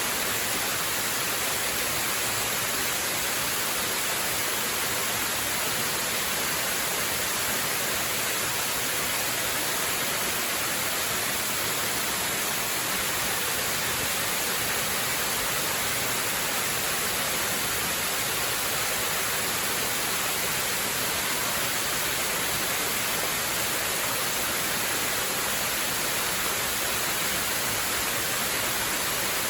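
Waterfall with a steady, unbroken rush of falling water: an even hiss, strongest in the high range, that does not change.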